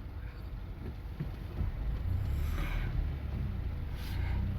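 Low, steady rumble of a Toyota Tacoma pickup's engine and tyres heard from inside the cab as it rolls slowly.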